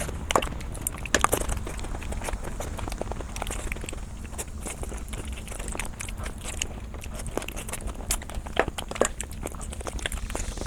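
Close-up eating sounds of a person biting, chewing and crunching food, with many irregular sharp crackles and clicks over a steady low hum.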